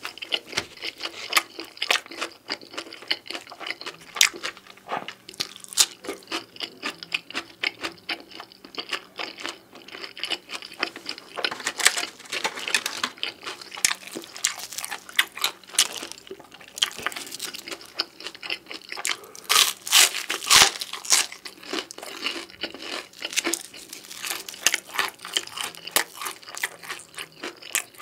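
Close-miked chewing and biting of beef pizza: a steady run of irregular crunches and clicks from the crust, busiest about twelve seconds in and again around twenty seconds in.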